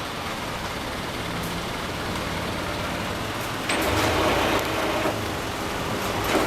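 A vehicle engine running steadily, growing louder a little past halfway, with a few light knocks.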